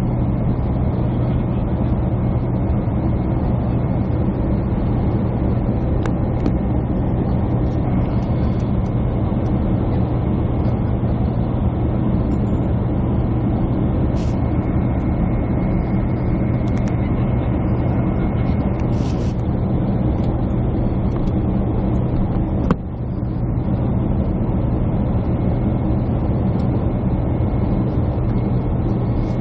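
Jet airliner cabin noise heard from a window seat: a steady, even drone of engines and airflow with a low hum. A single click about three-quarters of the way through, with a brief dip in the drone.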